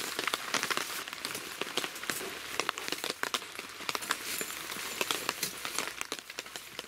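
Rain falling on the fabric of a tent, heard from inside: a steady hiss of many fine drop ticks, with a few rustles of a bag being handled.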